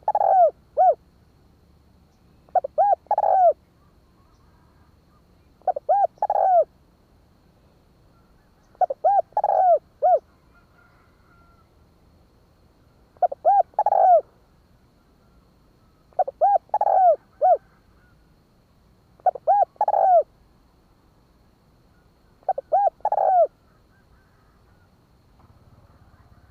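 Spotted dove cooing: a short phrase of three or four rounded coos, repeated about every three seconds, eight times.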